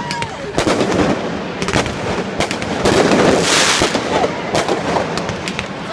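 Fireworks display: many bangs at irregular intervals, with a dense burst of crackling about three and a half seconds in.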